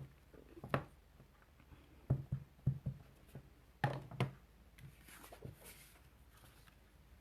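Stamping supplies handled on a craft desk: a string of light knocks and clacks as pieces are picked up and set down, then a brief soft rustle of paper about five seconds in.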